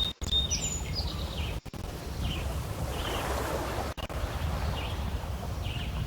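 Small lake waves splashing and lapping against shoreline stones, with a low rumble underneath. Birds chirp in short calls every second or so.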